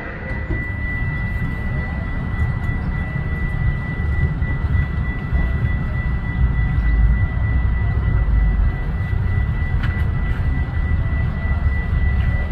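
Low, steady rumble of a passing train, swelling through the middle, with a thin steady high-pitched tone above it.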